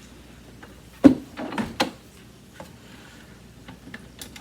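Hoover canister vacuum being handled and opened up: one sharp knock about a second in, then a few lighter clacks and clicks.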